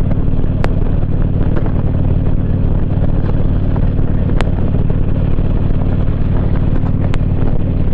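Motorcycle engine running steadily at cruising speed, with wind rushing over the microphone. Three brief sharp clicks come through, about a second in, near the middle, and near the end.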